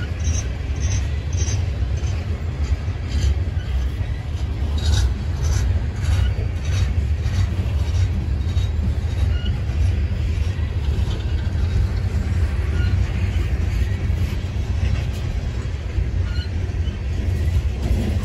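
CSX freight train's coal cars rolling past close by: a steady low rumble of steel wheels on rail, with scattered light clicks and clanks, mostly in the first several seconds.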